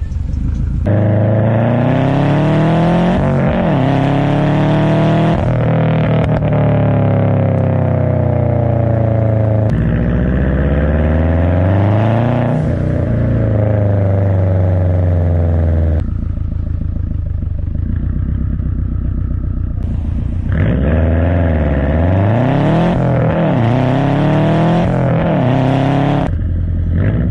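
Subaru EJ257 turbocharged 2.5-litre flat-four exhaust, through a non-resonated turbo-back system, revving repeatedly, its pitch climbing and falling. There is a lower, quieter stretch about two-thirds of the way through, then several quick rises and drops near the end.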